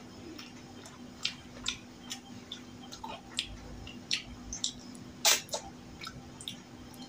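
Wet chewing and smacking mouth sounds of someone eating rice and chicken curry by hand: a scattered series of short, sharp clicks, the loudest about five seconds in.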